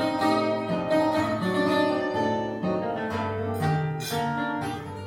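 Live fado accompaniment: plucked guitars play a melodic instrumental passage over a bass line, between sung verses.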